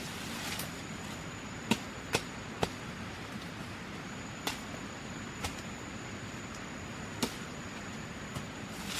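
A series of short, sharp knocks at irregular intervals, three in quick succession early and several more spread out later, over a steady hiss with a thin high whine.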